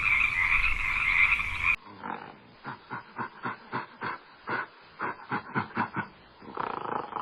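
A chorus of frogs trilling steadily. About two seconds in it cuts to a different recording: a run of short croaking calls, about three or four a second.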